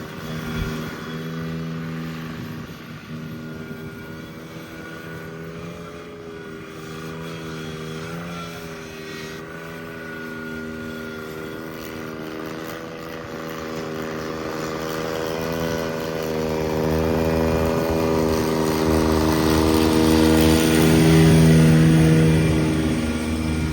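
Cub Cadet 782 garden tractor engine running steadily, with a slight waver in pitch. It grows louder about two thirds of the way in.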